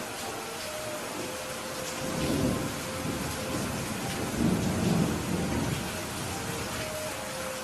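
Steady heavy rain falling, with low rumbles of thunder swelling twice, about two seconds in and again near the middle.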